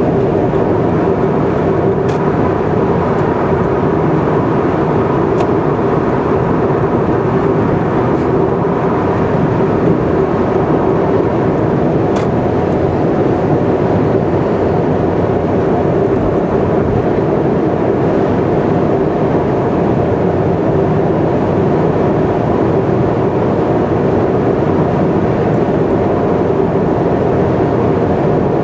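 Car cruising at expressway speed: a steady drone of tyre and engine noise with a constant hum and no change in pace.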